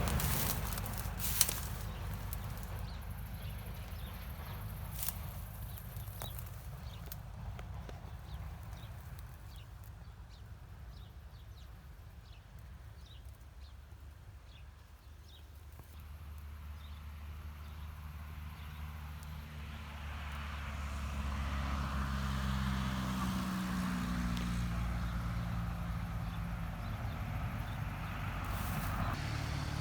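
A motor running at a steady low pitch comes in about halfway and grows louder, after a few sharp clicks and faint ticks in the first seconds.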